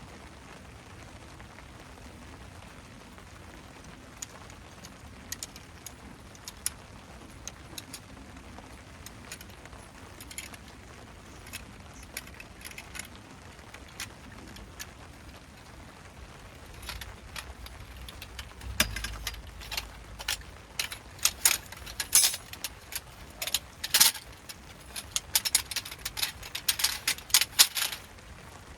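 Camping gear being handled and packed: scattered light clicks and metallic clinks that build into a busy jangling rattle over the last ten seconds or so, above a steady faint hiss of rain.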